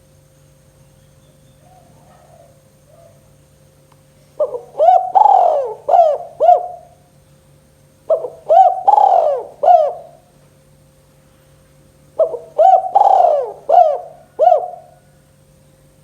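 Spotted dove (tekukur) cooing: three phrases of several coo notes each, about four seconds apart, the first starting about four seconds in.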